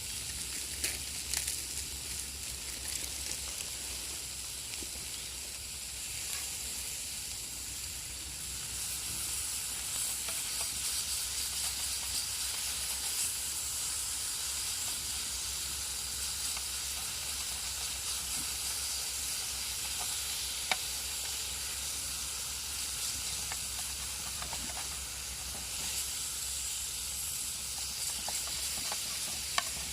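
Steak sizzling in a stainless steel frying pan over a wood fire: a steady hiss with a few sharp clicks scattered through it.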